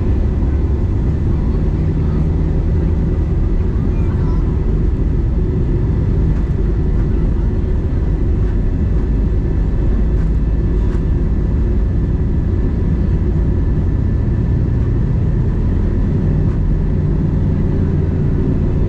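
Airbus A320neo cabin noise: a steady, loud low drone of the engines and airflow, with no change in pitch.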